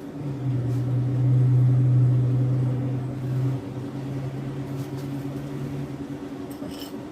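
A steady low mechanical hum, louder for the first few seconds and then easing off, with a couple of faint ticks near the end.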